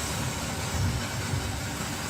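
Steady rain noise over a low, uneven rumble.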